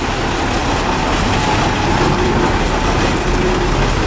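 Heavily loaded Ashok Leyland 16-wheel truck's diesel engine running steadily, a dense low rumble with a faint steady whine above it.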